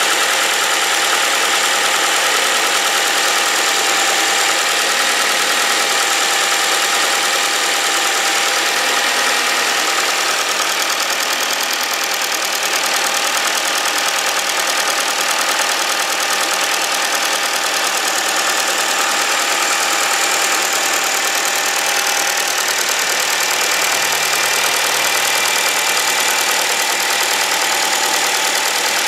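Ford Focus 3's 1.6-litre Duratec Sigma petrol four-cylinder idling steadily after a cold start, with loud fuel-injector chatter and a diesel-like ticking that the owner isn't sure is normal for this engine.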